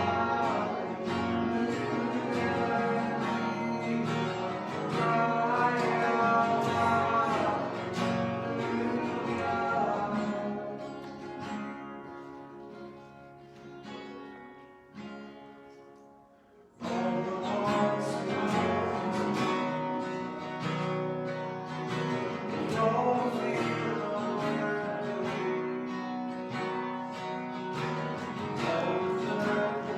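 Worship music led by acoustic guitar, with some singing. The music fades out about halfway through, then starts again suddenly about a second later.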